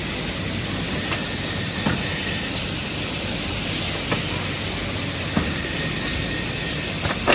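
Automatic bundy tube bending machine running: a steady mechanical hiss with short clicks and knocks at uneven intervals, the loudest knock near the end.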